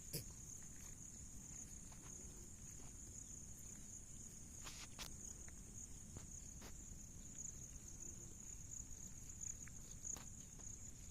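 Faint, steady, high-pitched trill of crickets, with a few sharp clicks or taps, two close together about halfway through and one near the end.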